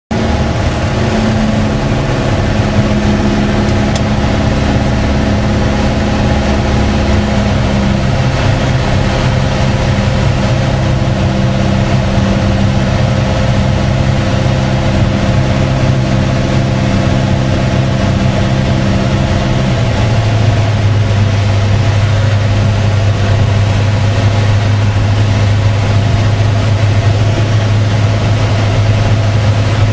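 Piper PA-28-161 Warrior's four-cylinder Lycoming engine and propeller droning steadily, heard from inside the cabin. The pitch of the drone steps down about two-thirds of the way through.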